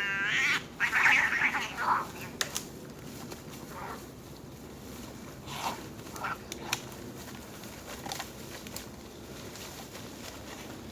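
An animal's drawn-out call, bending up and down in pitch, that ends about half a second in. It is followed by a few short rough calls and then scattered faint clicks and brief sounds.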